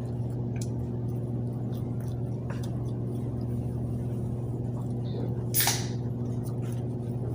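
Steady low hum with several evenly spaced tones underneath, with scattered faint clicks and a brief rustle about five and a half seconds in.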